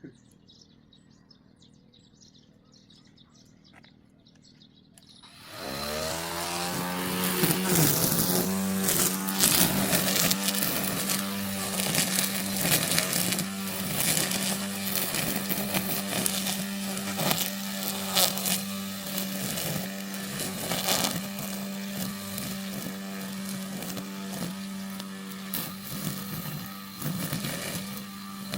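Faint outdoor background, then about five seconds in a battery-powered brush cutter spins up quickly and runs at a steady high speed, its motor whine with a rough, scratchy edge as the cutting head works through weeds and grass.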